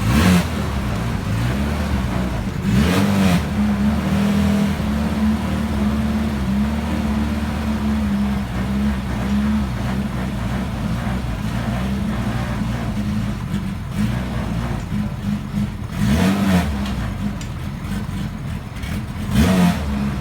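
Small race car's engine idling, blipped up in four short revs: one at the start, one about three seconds in, and two close together near the end.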